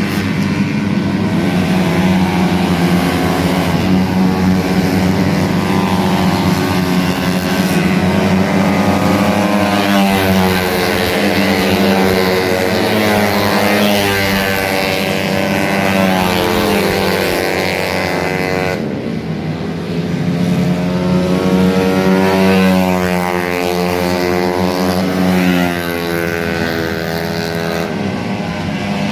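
150 cc automatic scooter engine running after a tune-up, revved up and down several times so that its pitch rises and falls repeatedly over a steady low drone.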